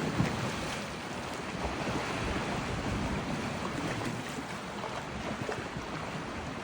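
Steady rushing water, with wind on the microphone.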